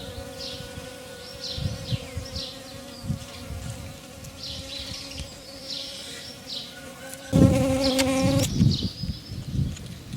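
Small birds chirping in short, repeated high notes over a steady insect buzz. About seven seconds in, a flying insect buzzes loudly close by for about a second.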